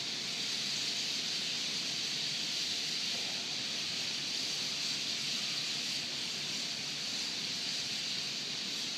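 Massed calls of a large flock of birds gathering to roost, blended into one steady high-pitched hiss.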